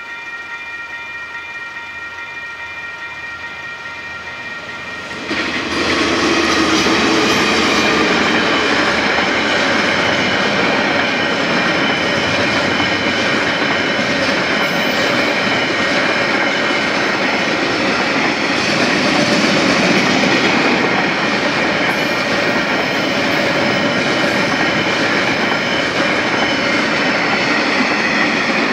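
Level crossing warning bells ringing steadily. About five seconds in a freight train reaches the crossing with a sudden jump in loudness, and its wagons run noisily over the rails through the rest, with the bells still ringing.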